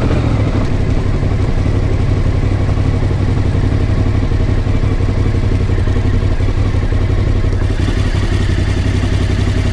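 Voge DS625X motorcycle's parallel-twin engine running steadily, a constant low drone.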